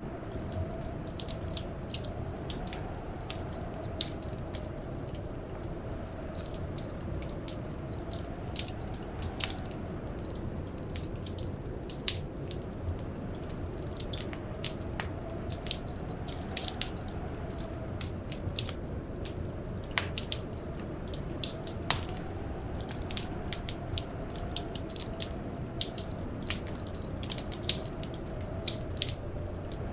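Crackling wood fire, with irregular sharp pops and snaps several times a second over a steady low rumble. Behind it a faint wind howl slowly rises and falls, as in a blizzard.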